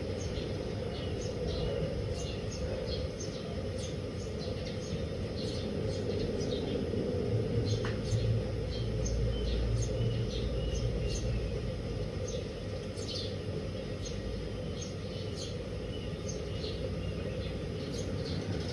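Many short, high bird chirps over a steady low rumble.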